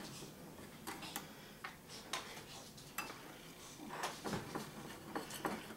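Irregular light clicks and taps of kitchen utensils against dishes, a dozen or so scattered sharp ticks.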